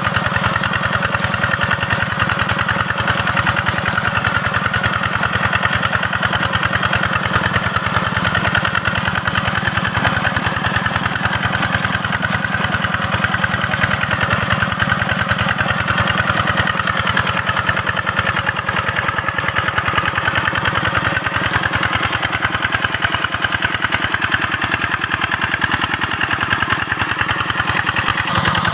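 Single-cylinder diesel engine of a two-wheel hand tractor running steadily with a fast, even chugging beat.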